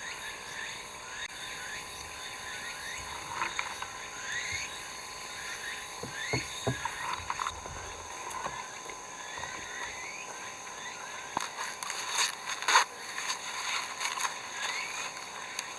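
Many short rising chirping animal calls repeating over a steady high hum, with scattered clicks and knocks; one sharp knock about thirteen seconds in is the loudest.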